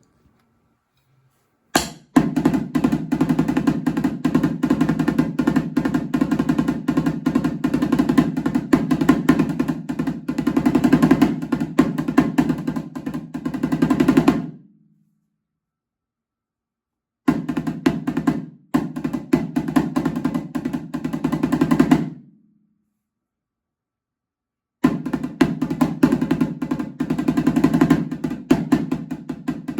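A conga played with fast, dense hand strokes, working through a taiko drum part. The drumming starts about two seconds in, stops twice for a few seconds, and starts up again each time.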